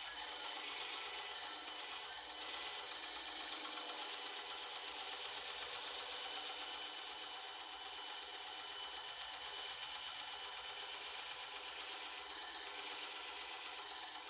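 Bandsaw running steadily and cutting wood, a constant whirring hiss with a high whine and no pauses.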